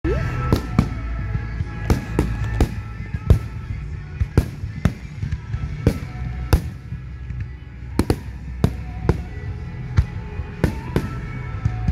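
Aerial firework shells bursting in a rapid string of sharp bangs, roughly two a second, with music playing underneath.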